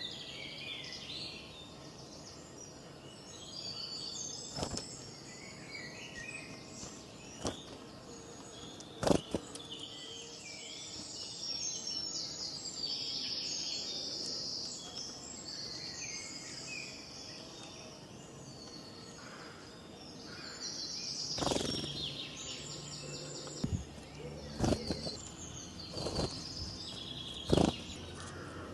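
Several birds chirping and singing over a faint steady outdoor background, with a handful of sharp knocks or taps, the loudest about nine seconds in and several more near the end.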